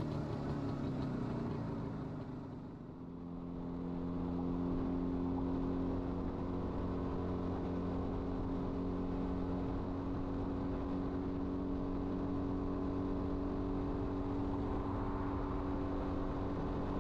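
IZH Planeta 5 motorcycle's single-cylinder two-stroke engine running as the bike rides along. It dips in level about three seconds in, then holds a steady note.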